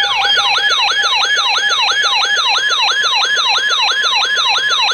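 Electronic alert siren going off on an alert device that has just activated for a severe thunderstorm warning. It wails in quick falling sweeps, about four to five a second, over a steady tone that steps up in pitch about halfway through.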